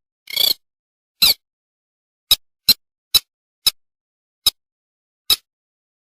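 A sintar's companion-calling cry: a series of about nine short, sharp high chips at uneven intervals. The first two are a little longer and buzzier.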